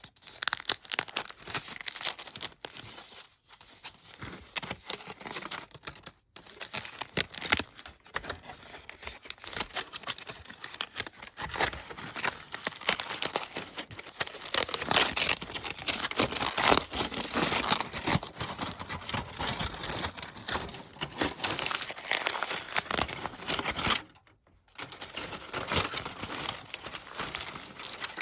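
Dense, continuous crinkling and crackling of crunchy snacks handled close to the microphone. It stops briefly about three and six seconds in, and for a little under a second near the end.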